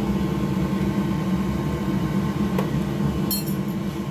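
Steady mechanical hum, like a running fan or motor, with a single click about two and a half seconds in and a brief high-pitched chirp a moment later.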